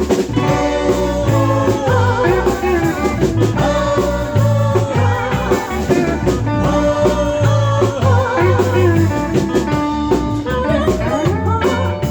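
Live band playing a song through a passage between sung lines: drums and a steady bass line under a lead melody that wavers with vibrato.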